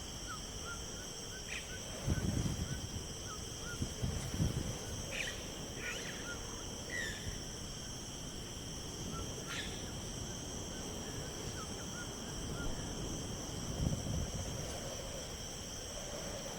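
Insects chirring in a steady high drone, with faint short chirps scattered through it and a few soft low rumbling swells.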